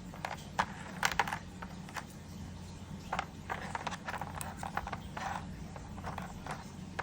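Hard pieces of agarwood (oud wood) being handled, knocking and clicking irregularly against each other and a surface, over a steady low hum.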